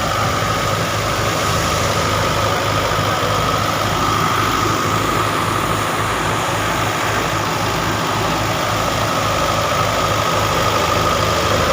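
Tractor engine running at a steady speed, with a steady high whine above its low drone.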